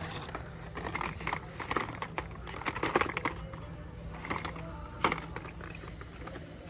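Plastic blister packs of carded die-cast toy cars clicking and clattering as they are handled and flipped through one after another, with irregular sharp clicks, the loudest about three and five seconds in, over a steady low hum.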